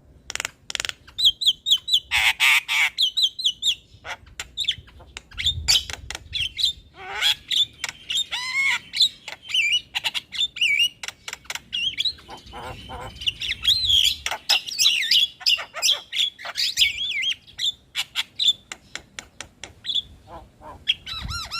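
Javan myna (jalak kebo) singing a busy, continuous song of chattering whistles, sharp clicks and harsh squawks.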